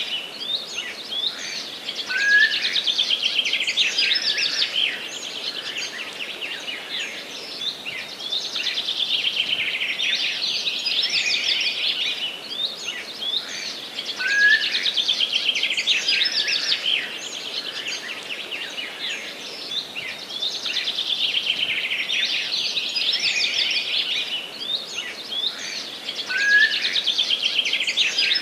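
Several songbirds singing in overlapping phrases of fast trills and chirps, with a louder bout about every twelve seconds that opens with a short rising note. A faint steady background hiss lies under the song.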